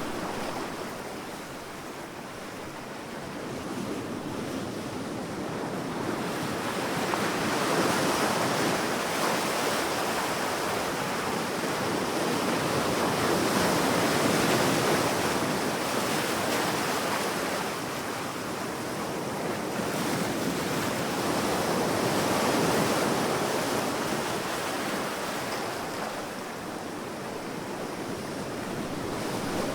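Sea waves washing onto a sandy beach: a steady rush of surf that swells and eases in slow surges every several seconds.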